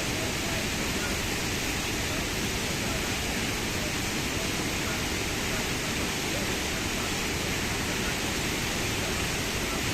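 Düden Waterfall's falling water: a steady, unbroken rush.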